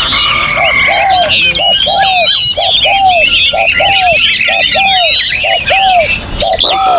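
Many caged songbirds singing and chirping over one another, with a low, hooted, arching note repeated steadily about twice a second beneath the chatter.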